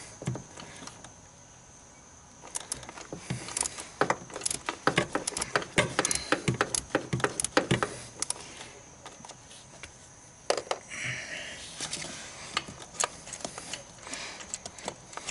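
Socket ratchet clicking in short, irregular runs as it works a spark plug loose, with metal tools clinking. There is a single knock about ten and a half seconds in.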